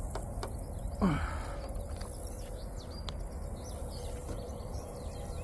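Small birds chirping faintly over a steady low background rumble, with one short falling vocal exclamation about a second in.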